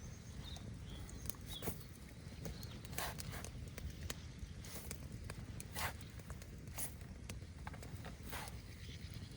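Scattered sharp knocks and clicks, a second or so apart and irregular, over a steady low rumble.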